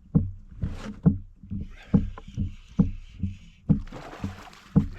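Hollow knocks against a plastic kayak hull, about two a second, over a light hiss.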